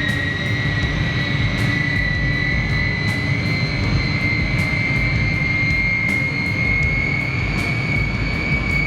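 Jet airliner engines running with a loud rumble and a high whine that climbs slowly and steadily in pitch.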